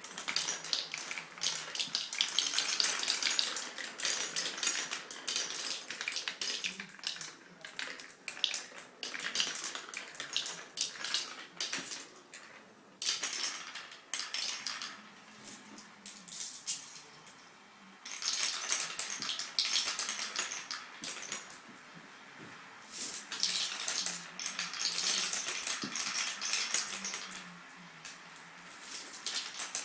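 Glass marbles clattering and rolling down a wooden Quadrilla marble run: long runs of rapid clicking and rattling, with a few short lulls between them.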